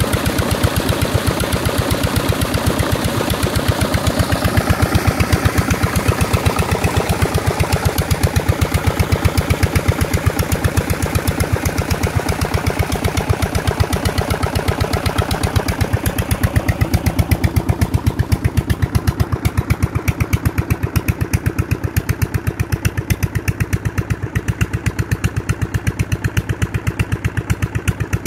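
Diesel engine running steadily at a constant speed with an even, rapid firing beat while it drives irrigation water to a paddy field. Its brighter upper sound dies away over the second half, leaving mostly the low beat.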